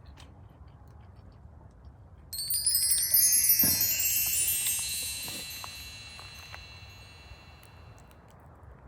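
Chimes ringing: a cluster of many bright, high tones sets in suddenly about two seconds in, then fades away over several seconds.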